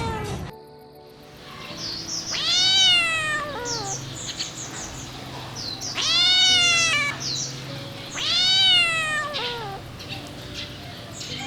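Kitten meowing: three long, high meows a few seconds apart, each rising then falling in pitch, with short high chirps in between.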